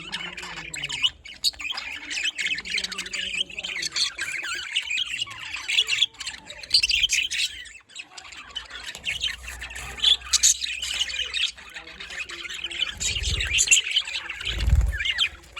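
A group of pet budgerigars and lovebirds chattering and squawking together without pause, many overlapping high chirps and screeches. A short low bump sounds near the end.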